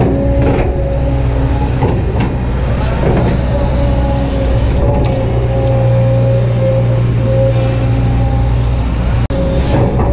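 Kobelco SK200-8 hydraulic excavator working: the diesel engine runs as a steady low drone under a held whine, with a few light knocks.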